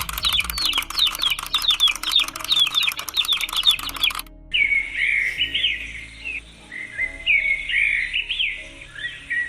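Birds chirping: first a dense, rapid stream of short falling chirps. About four seconds in it cuts abruptly to a different recording of slower, arching bird calls.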